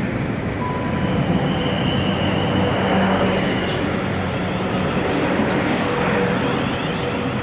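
Train running past at a station: a steady loud rumble and rush, with a high whine from about two to four seconds in.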